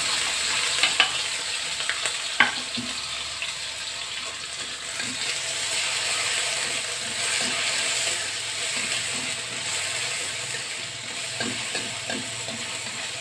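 A spice base of sliced shallots, garlic, tomato and chillies sizzling in a very hot wok, being fried until fragrant. A steel ladle-spatula stirs it, clicking and scraping against the pan, with a few sharp knocks in the first seconds, the loudest about two and a half seconds in.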